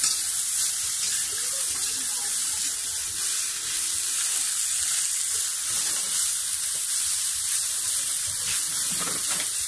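Sliced bitter gourd and kikiam sizzling in hot pork fat in a wok, a steady frying hiss, with now and then a light scrape as a metal spoon stirs them.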